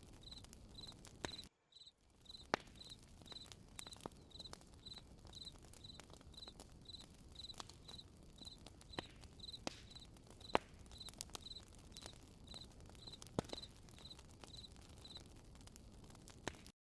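Campfire crackling with scattered sharp pops, under a cricket chirping steadily about twice a second; the chirping stops near the end. The sound cuts to total silence for a moment about a second and a half in.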